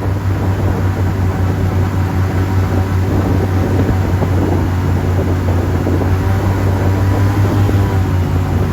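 Airboat engine and propeller running steadily, a loud low hum with a rushing noise over it.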